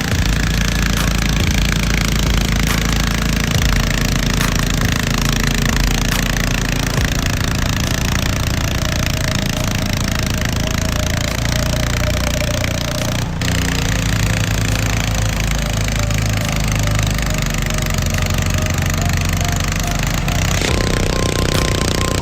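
Pulling tractor's engine running loud and hard at high revs, with a fast hammering beat, cut briefly about halfway through.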